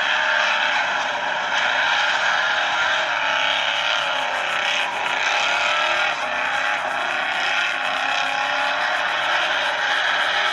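Recorded car engine sound used as a soundtrack: a car running continuously, its engine note wavering a little. It sounds thin, with little bass.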